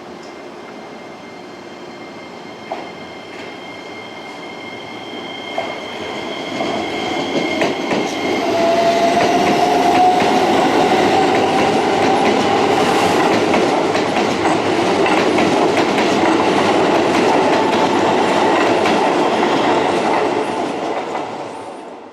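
Keisei electric train running close by: wheels clattering over the rail joints, growing loud from about four seconds in and staying loud, with a slowly rising whine in the middle. The sound cuts off suddenly at the end.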